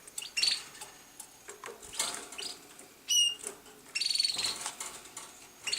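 Canaries chirping: scattered short high-pitched calls, with a brief fast trill about four seconds in.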